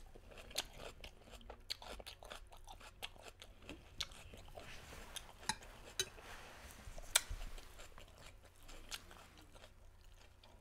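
Close-up chewing of a mouthful of Caesar salad, the romaine lettuce crunching with irregular wet crackles, one sharper crunch about seven seconds in.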